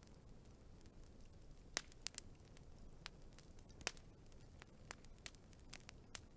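Wood fire crackling: sharp, irregular pops and snaps over a faint low hiss. The loudest snaps come a little under two seconds in and again just before four seconds in.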